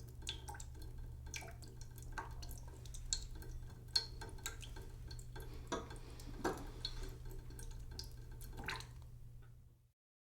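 Water dripping into a cooking pot in a sink: irregular plinks, some falling in pitch, over a steady low hum. The sound cuts off about ten seconds in.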